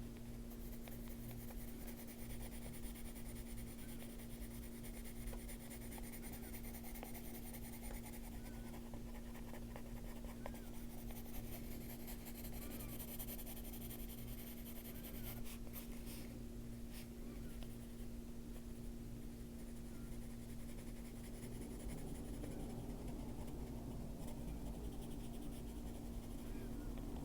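Colored pencil strokes scratching softly and steadily on paper, over a steady low hum.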